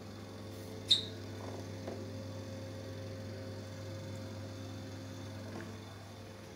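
Steady low electrical hum, with one sharp click about a second in that rings briefly, and a smaller tick shortly after.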